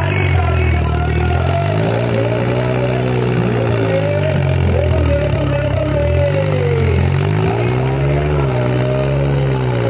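Tractor diesel engine revving up and down over and over, its pitch rising and falling in smooth swells every second or two under a steady low rumble.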